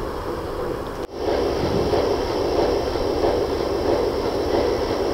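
A work train moving a Jordan spreader along the track, a steady mechanical rumble of engine and rolling wheels. The sound drops out for an instant about a second in and comes back louder.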